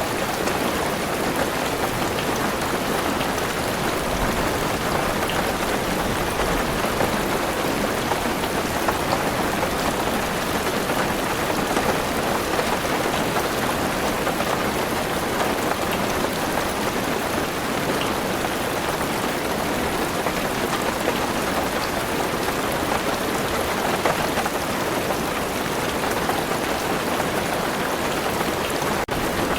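Heavy rain falling on a car roof, heard from inside the car: a dense, steady pattering with no break.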